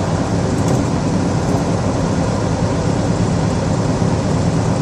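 Steady engine and road noise inside a semi-truck's cab while it drives down the highway.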